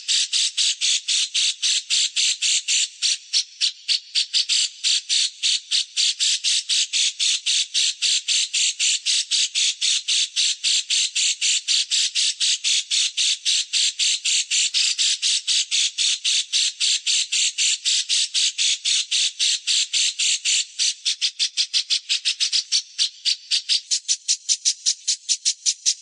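A bird's harsh, rasping chatter: short, high notes repeated evenly at about five a second, without a break.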